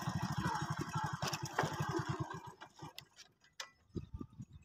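Motorcycle engine's evenly spaced exhaust pulses, about ten a second at first, slowing and fading out over the first two and a half seconds as the engine stops; a few faint clicks follow.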